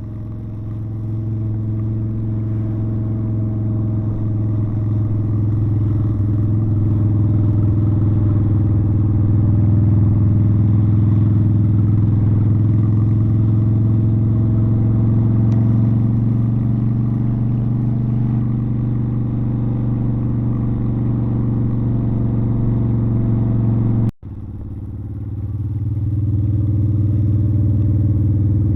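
Motorcycle engine running steadily while being ridden, a low drone whose pitch drifts slowly up and down with speed. It breaks off for an instant near the end, then resumes.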